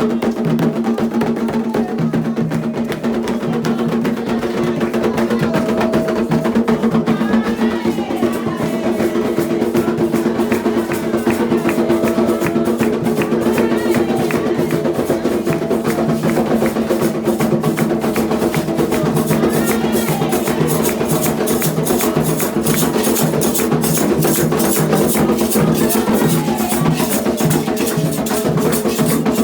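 Candomblé ritual music: fast, steady hand-drum percussion with sharp clicking strokes over sustained tones. The strokes grow sharper and more regular in the second half.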